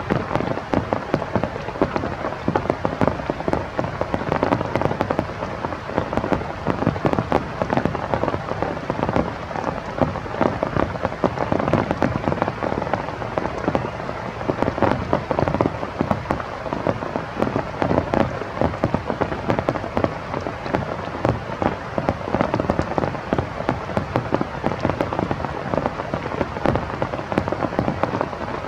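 Steady heavy rain, with many sharp drop impacts on hard surfaces.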